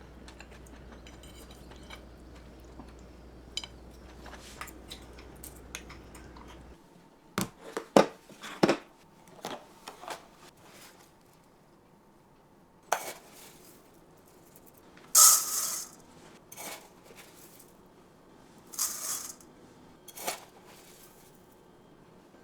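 Kitchen utensils and dishware knocking and clinking against pots and dishes during home cooking. Early on there is a steady low hum that stops abruptly. After it come scattered sharp clinks and knocks, with a longer scraping burst about halfway through.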